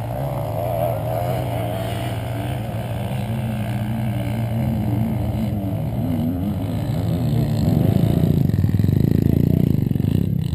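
Off-road motorcycle engine running, its revs wavering up and down, and louder from about eight seconds in.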